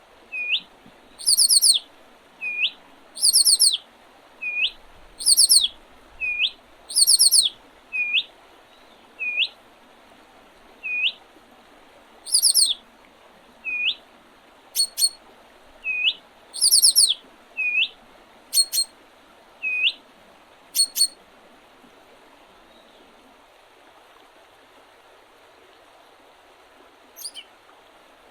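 Songbirds singing: a short rising whistle repeated about once a second, interleaved with loud, high, buzzy trills. The song pauses for several seconds near the end, then a few high notes return, all over a faint steady rush.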